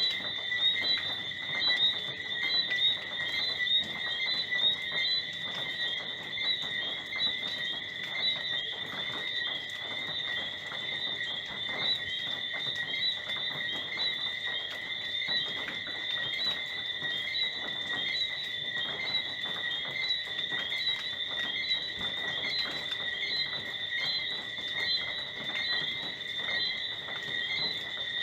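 Tropical night chorus of crickets and frogs: a dense, steady high-pitched trilling and chirping that goes on without a break.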